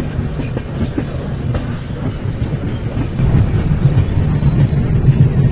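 Moving passenger train heard from inside the carriage: a steady low rumble with wheel clicks over the rail joints, growing louder about three seconds in.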